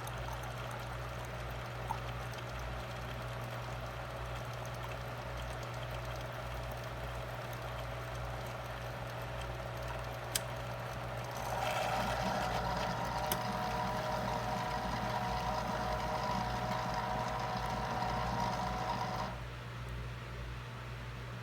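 Single-serve pod coffee maker brewing, with liquid trickling over a steady hum. About ten seconds in there is a click, then a louder whirring run with a faint whine that stops suddenly near the end. The coffee is only dribbling out, a fault that set in after a few days of use.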